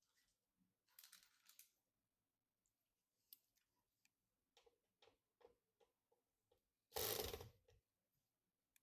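Faint clicks and ticks of computer parts being handled during a PC build, a string of small sharp ticks in the middle, followed about seven seconds in by a short, louder scraping rustle.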